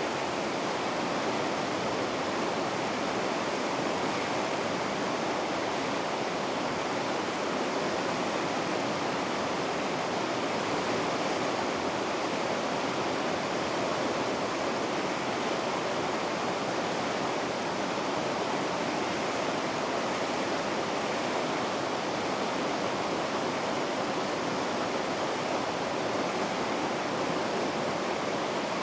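Water rushing steadily through river rapids, an even, unbroken rush that does not change.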